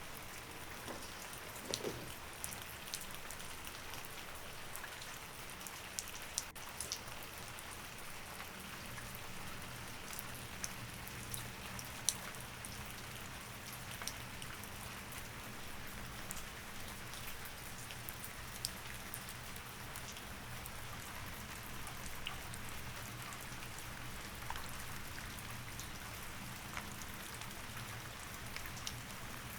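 Steady rain falling, with scattered individual drops ticking on a surface and a faint low hum underneath.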